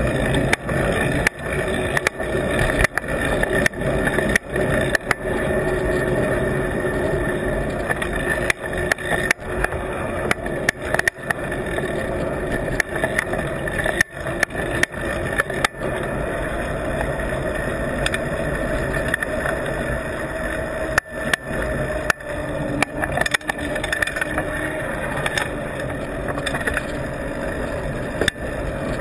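Riding noise picked up by a camera stuck to a moving bike with an adhesive mount: a steady rush of wind and road noise, broken by frequent knocks and jolts as the mount takes the bumps.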